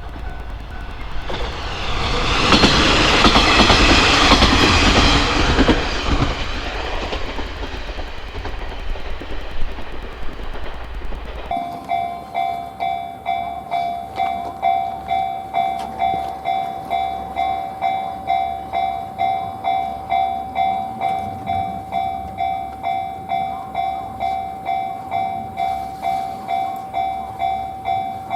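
A diesel railcar passes, a rush of noise that swells a couple of seconds in and fades away. Near the middle the sound switches abruptly to a Japanese level-crossing alarm ringing its steady electronic "kan-kan" tone, a little under two strokes a second.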